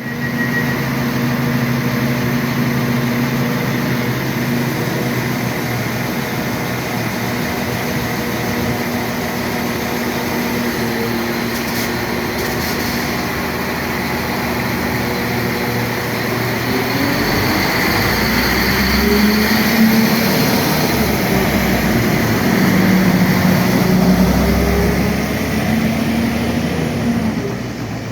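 Train running at a station platform: a loud, steady engine or motor note with a low hum, which about halfway through starts to rise and fall in pitch.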